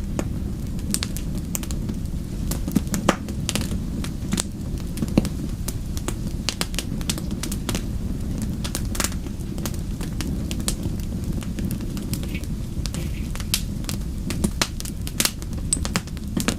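Wood fire burning, with frequent sharp crackles and pops over a steady low noise from the flames.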